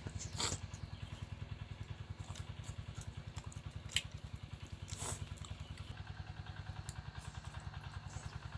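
A small engine running steadily with a low, rapid chugging of about nine beats a second, with a few short sharp clicks over it.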